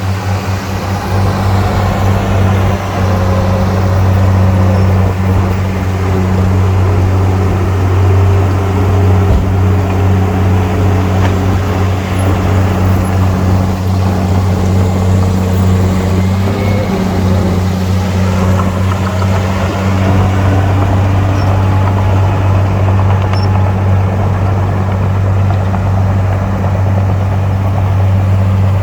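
Heavy diesel machinery running continuously: a deep, steady engine drone, with fainter higher tones that slowly rise and fall in pitch.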